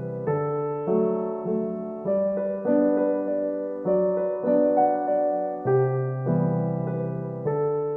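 Gentle solo piano background music: soft sustained chords, a new one struck about every half second to second.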